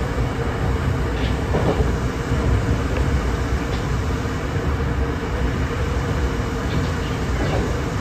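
Kintetsu 6820 series electric commuter train running along the line: a steady low rumble of wheels on rail with a faint steady hum and a few scattered clicks over the rail joints.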